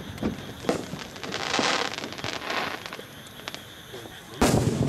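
Aerial fireworks shells bursting as sharp bangs, a couple of lighter reports early on and a loud boom about four and a half seconds in.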